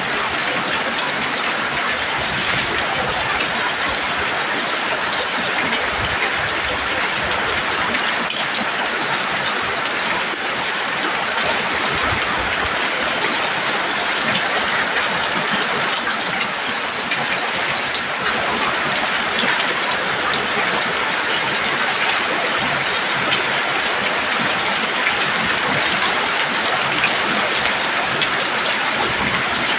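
Heavy rain falling steadily on a roof, a dense, even patter with no let-up.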